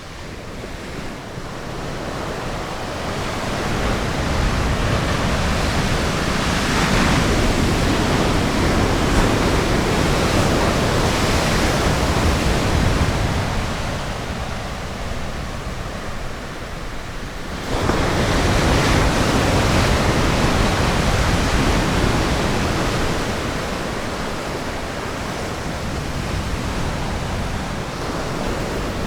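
Ocean surf breaking on a beach: a long rush of wash that swells and fades, then another wave breaks suddenly about two-thirds of the way through and slowly eases off.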